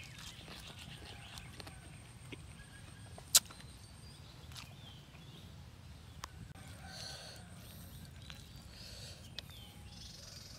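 Close-up chewing and mouth sounds of a person eating a shrimp and papaya salad, with one sharp, loud click about three and a half seconds in.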